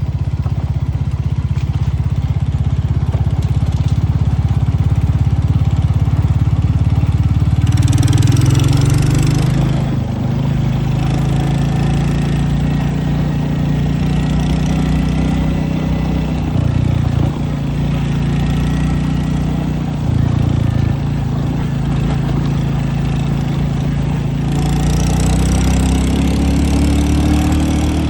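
A vehicle engine running steadily on the move, with the revs climbing about a third of the way in and again near the end.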